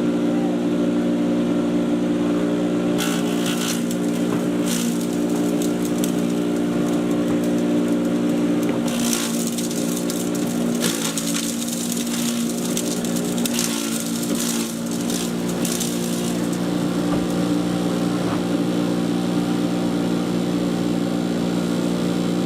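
Patriot 2.5-inch 1.5-HP electric chipper shredder running with a steady motor hum. From about three seconds in until about sixteen seconds in there are irregular bursts of harsher noise over the hum, as material goes through the cutters.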